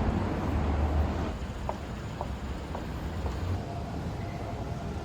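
City street traffic noise, a steady rumble of passing vehicles that eases about a second in, with four short evenly spaced beeps about half a second apart.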